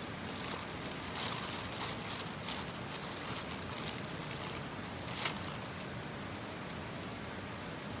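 Wood campfire crackling, with a steady hiss and many quick sharp pops, the loudest about five seconds in.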